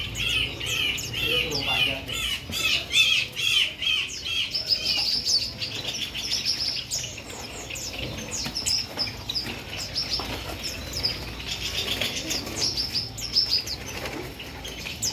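Songbirds chirping: a fast run of repeated looping notes for the first four seconds or so, then higher, quicker chirps from several birds, with short clicks and wing flutters throughout.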